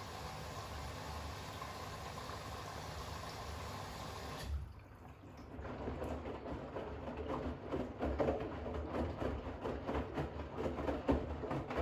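Bosch WAX32GH1 washing machine in its rinse: water from the inlet hisses steadily into the drum, then stops abruptly about four and a half seconds in. After a short lull the drum turns and water sloshes irregularly with the towels.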